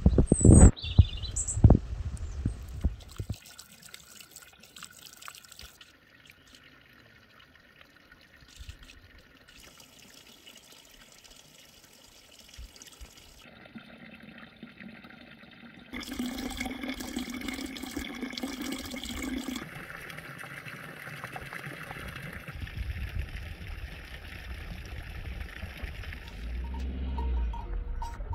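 Running water, opened by a few loud, deep knocks in the first three seconds.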